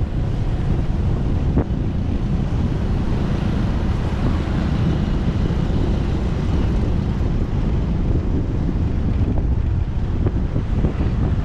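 Wind buffeting the microphone of a moving motorcycle, a steady low rumble over the motorcycle's running engine and road noise.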